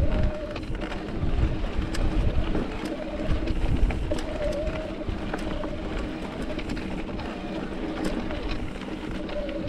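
Mountain bike riding over rocky singletrack: wind on the microphone and tyres rumbling over rock, with frequent clicks and rattles from the bike and a wavering buzzing tone that comes and goes.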